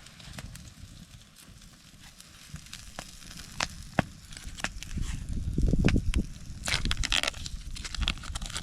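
Wood campfire crackling, with sharp pops every second or so. About five seconds in, a louder low rumble and rustle builds up for a few seconds.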